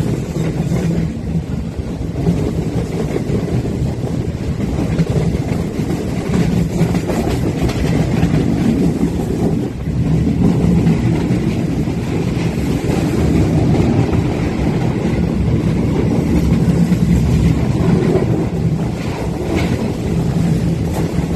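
Passenger train running at speed, heard from a coach window: a steady rumble and rush of wheels on rail, with some wind on the microphone.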